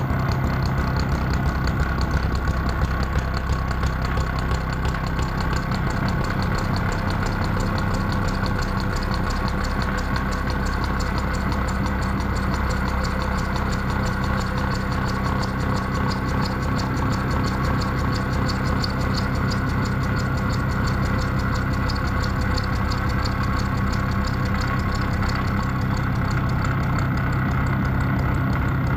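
Horizontal milling machine running steadily with a gear cutter on its arbor, cutting the teeth of a spur gear blank: a constant motor and gearbox hum with a faint fast flutter over it.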